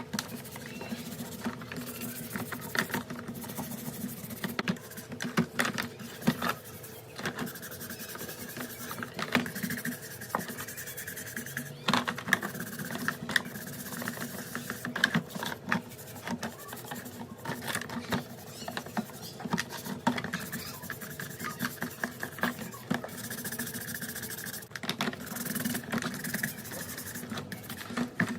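Irregular small clicks, knocks and scrapes of parts and hand tools being handled during bench work on a rotary hammer drill, over a steady low hum.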